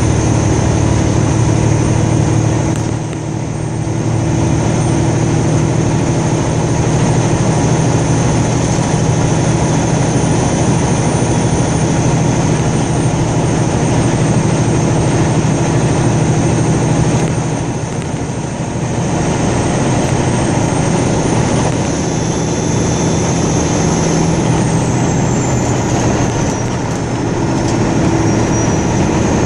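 Steady road and engine noise inside a moving car, with a constant low hum. The level dips briefly about three seconds in and again around eighteen seconds, and a faint high whine wavers in pitch near the end.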